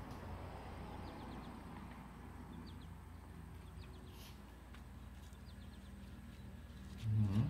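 Faint outdoor ambience with a few scattered bird chirps over a low steady hum.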